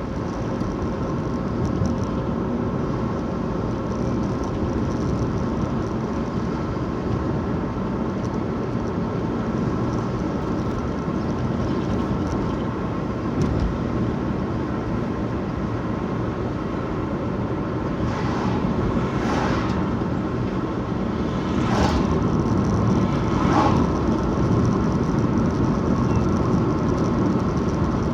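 Steady road and engine noise of a car being driven, heard from inside the cabin, with a few brief louder swishes about two-thirds of the way through.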